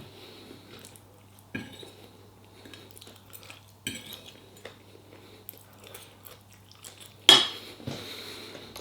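Cutlery clinking and scraping against a dish of food as someone eats: a few separate knocks and clicks, the loudest near the end, over a faint steady low hum.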